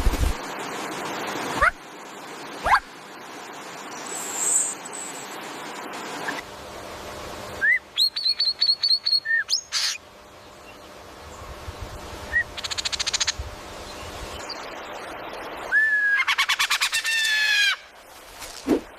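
Wild birds calling and singing: single upward-sweeping whistled calls, a quick run of about ten rising chirps, and fast trills.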